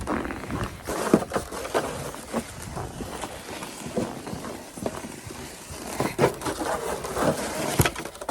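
Snow shovel working heavy snow off a deck: uneven scrapes and swishes of the blade through the snow, with a few sharp knocks of the shovel against the boards.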